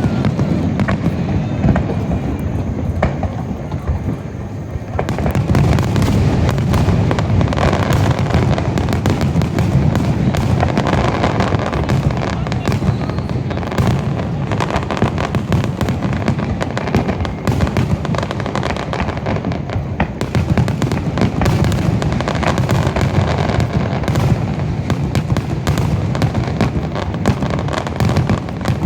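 Aerial fireworks in a finale barrage: shell bursts going off in rapid, overlapping succession. They are sparser at first and become a dense, continuous barrage about five seconds in.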